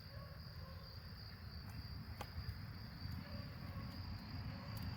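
Steady high insect chirring, like crickets, under a low rumble, with a single sharp click about two seconds in.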